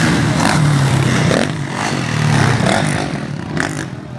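Motocross motorcycle engines running and revving, easing off about three seconds in.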